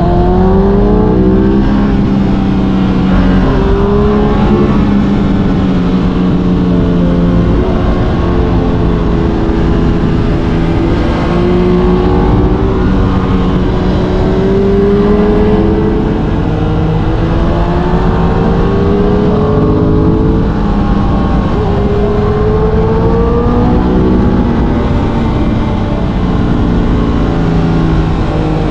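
Aprilia RS 660's parallel-twin engine running at riding speed, repeatedly climbing in pitch under throttle and dropping back between gears, over a steady rush of wind and road noise.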